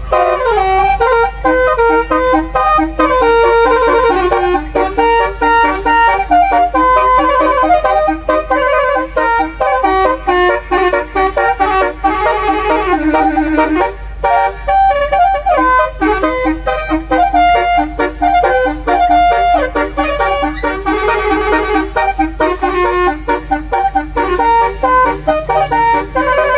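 Basuri V8 multi-trumpet musical air horn on a truck playing a brassy melody, note after note with several tones sounding together, over a steady low hum.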